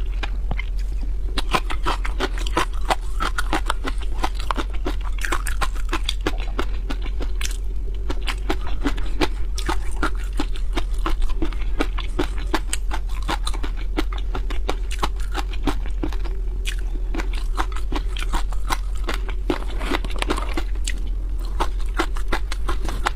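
Close-miked chewing and biting of raw shrimp and prawns: a dense, continuous run of wet clicks and small crunches, over a steady low hum.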